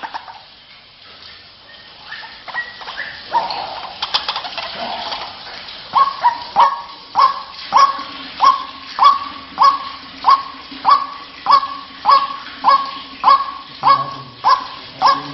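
White-breasted waterhen calling: a few scattered calls, then from about six seconds in a steady run of sharp repeated notes, nearly two a second.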